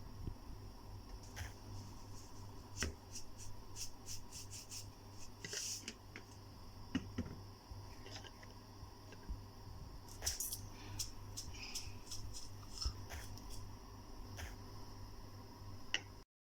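Faint kitchen handling sounds: scattered light clicks, taps and rubbing from hands and utensils working with food, over a steady low hum. The sound drops out suddenly near the end.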